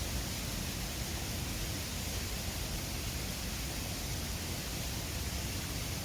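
Mountain river flowing: a steady, even rush of water with no breaks.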